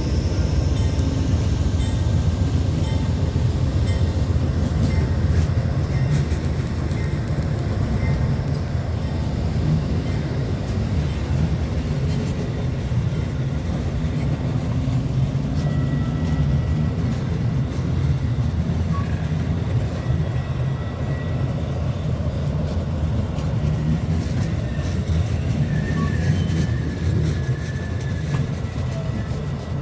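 Amtrak Northeast Regional train led by locomotive 179 rolling past: a steady low rumble of engine and wheels, with light clicks and a few faint high squeals in the second half.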